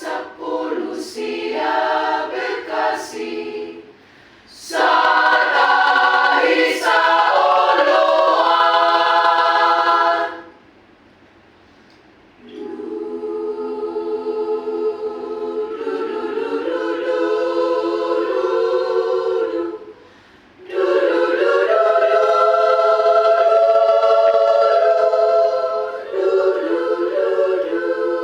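A choir at rehearsal sings a few short phrases, then long held chords. It breaks off twice, once for about two seconds and once only briefly, and comes back in each time.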